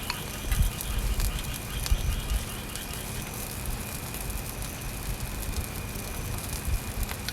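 Rain pattering steadily, with many small ticking drops, over a steady high insect trill.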